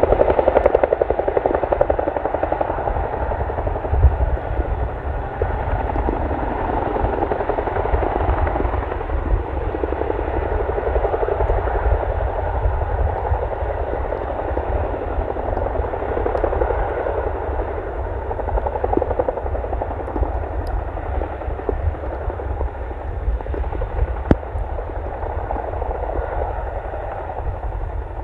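Boeing CH-47D Chinook tandem-rotor helicopter in flight: a steady, rapid beat from its twin rotors over a low rumble, slowly getting quieter toward the end.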